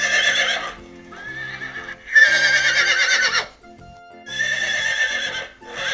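Horse neighing several times, each whinny shaky and wavering, over background music.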